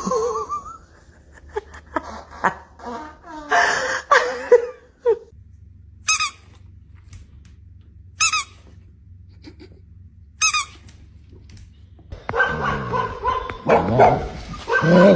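A dog vocalising: a gliding whine at the start, barks and whines around four seconds in and again from about twelve seconds on, and three short high-pitched squeaks about two seconds apart in between.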